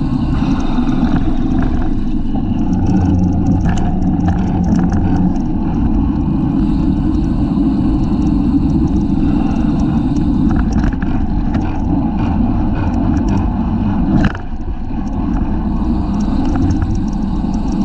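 Wind rushing over a bicycle-mounted camera's microphone, with road and tyre rumble underneath and scattered light ticks and rattles. A single sharp knock comes about fourteen seconds in.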